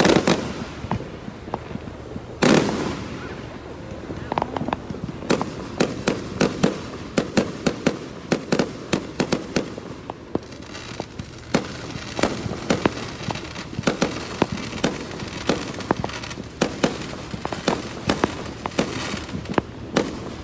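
Aerial fireworks display: two heavy shell bursts, at the start and about two and a half seconds in, each booming and echoing, then rapid volleys of sharp cracks and pops that go on to the end.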